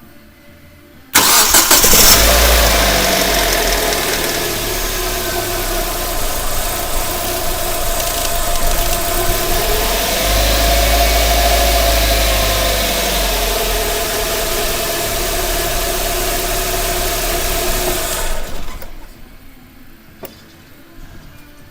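Hyundai Tucson 2.0 petrol inline-four started about a second in, on its first run after a new timing belt and water pump, then idling steadily. The revs rise briefly near the middle, and the engine is switched off a few seconds before the end.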